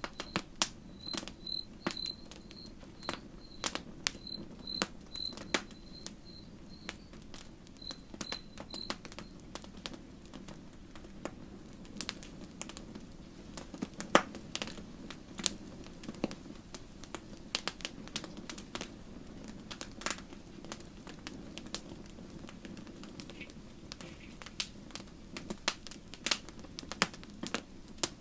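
Campfire crackling: irregular sharp pops and snaps over a steady low rumble of the burning wood. For about the first nine seconds a high chirp repeats about twice a second.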